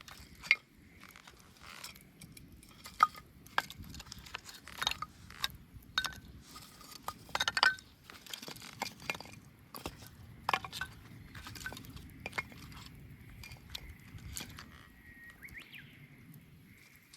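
Wood bonfire crackling and popping: irregular sharp snaps of burning wood, the loudest about half a second in and at about three seconds, over a low steady rush of flame.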